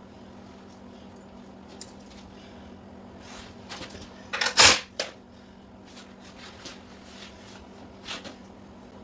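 Scattered metal knocks and clicks of the motorcycle's rear wheel and spacers being worked into the swing arm. About four and a half seconds in comes a louder scraping clunk, and a smaller knock near the end, over a faint steady hum.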